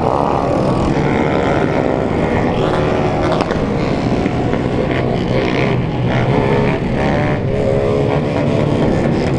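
A convoy of many small single-cylinder motorcycles, mostly Honda 160s, running and revving together. Several engine notes rise and fall over one another.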